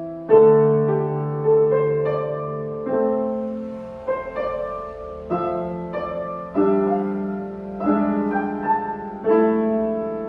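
Solo piano playing a slow, lyrical passage: chords struck about once every second and a bit, each left to ring and fade before the next.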